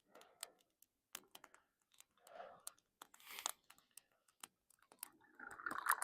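Small campfire crackling faintly, with scattered sharp pops and a few softer crunching rustles in between.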